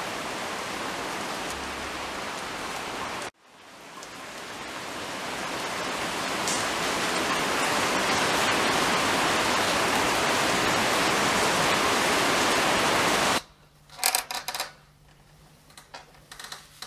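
Steady heavy rain, a sound effect for the storm. It cuts out about three seconds in, fades back in louder, then stops abruptly a few seconds before the end, leaving a few brief knocks over a low hum.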